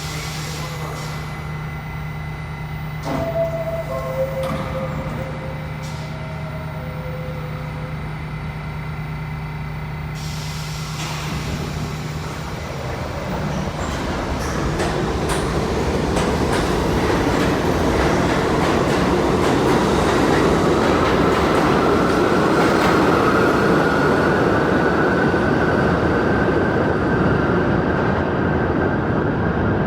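New York City subway train in the station: a steady low hum for the first twelve seconds or so, then from about halfway the train's running noise builds and grows louder, with a motor whine slowly rising in pitch as it gathers speed.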